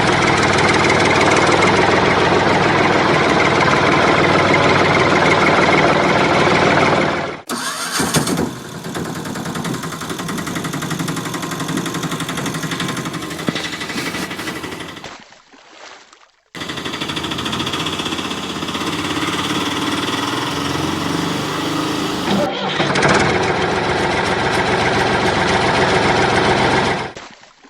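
Vehicle engine running steadily, in several segments joined by abrupt cuts: one changes about seven seconds in, there is a short gap around the middle, and the sound stops just before the end.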